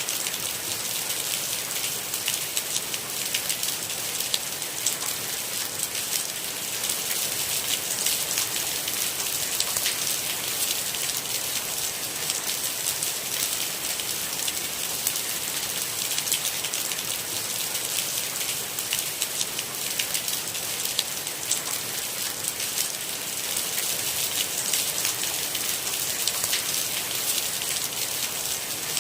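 Steady rain falling, a dense, even hiss of many small drop impacts with no thunder.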